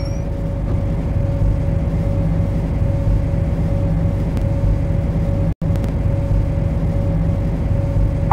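MTR C-Train electric multiple unit standing with its auxiliary equipment running: a steady low rumble with a constant mid-pitched hum. The sound cuts out for an instant a little past the middle.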